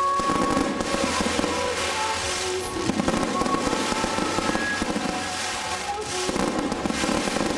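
Fireworks crackling and popping in a dense, rapid stream of sharp reports, with music underneath.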